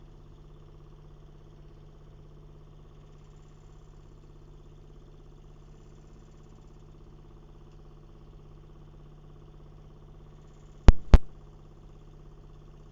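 Steady low mechanical hum at an even pitch, like an engine idling. About eleven seconds in come two sharp knocks a quarter second apart, the loudest sounds here.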